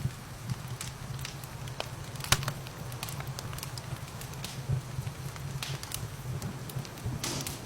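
Wood fire crackling, with irregular sharp pops, the loudest about two seconds in, over a steady low rumble and hiss.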